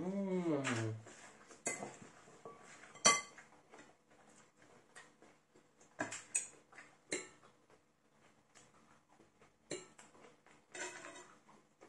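Cutlery clinking against plates during a meal: scattered light clicks and taps, a few every couple of seconds. A short voice falling in pitch at the very start is the loudest sound.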